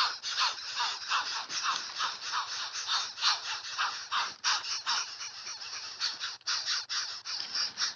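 Asian koel chicks giving a fast, unbroken series of short, harsh, rasping calls, about three or four a second.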